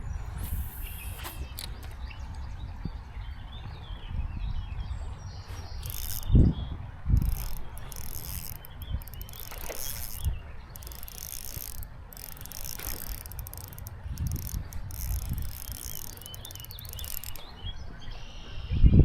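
Fishing reel being cranked in stretches, its gears giving a fine ratcheting click, with a few dull knocks against the kayak.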